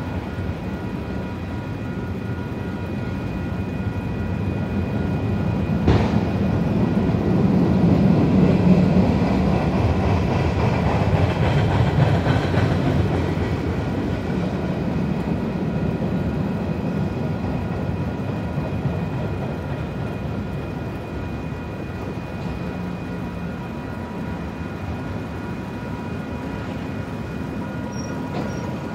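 Freight train cars rolling past a grade crossing: a steady rumble and clatter of wheels on rail that swells through the middle and eases off toward the end, with one sharp clank about six seconds in.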